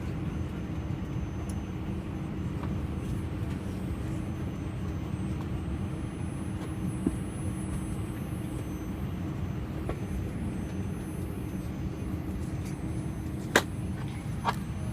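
Steady low hum of an Airbus A320 cabin parked at the gate, with a few faint steady tones in it. Several sharp clicks or knocks cut through it, the loudest near the end.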